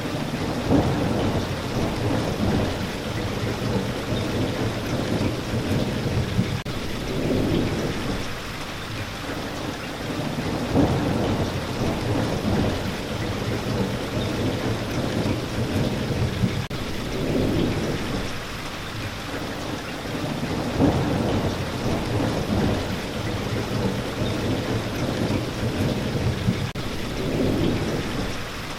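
Steady rain, with low thunder rumbling in slow swells every few seconds.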